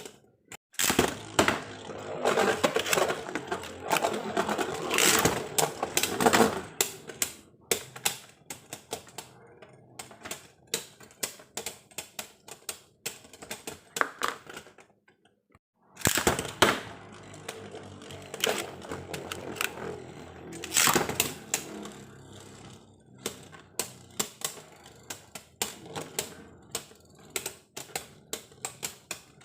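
Beyblade Burst spinning tops clattering and rattling against each other and a plastic stadium, in two rounds: the first starts about a second in, and the second after a short silence about halfway through. Each round thins into separate clicks as the tops slow.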